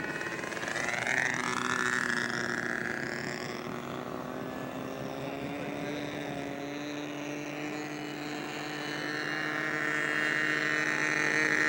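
Radio-controlled model seaplane's glow engine running in flight: a steady buzz whose pitch drifts slowly as the plane moves, growing louder near the end as it comes closer.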